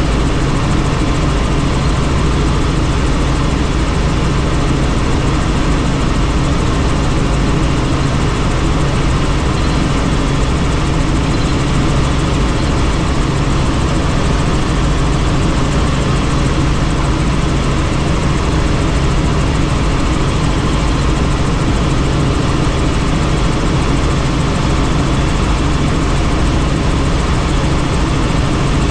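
Helicopter in flight: the steady, unbroken drone of its rotor and engine, a low hum over a wide rushing noise.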